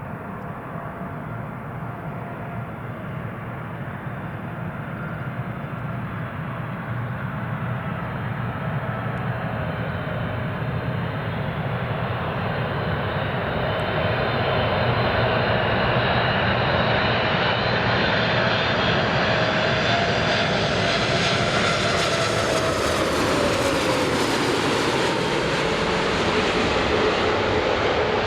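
Boeing 747's four jet engines on landing approach, growing steadily louder as the jumbo jet nears. Its whining tones drop in pitch as it passes, about four-fifths of the way through.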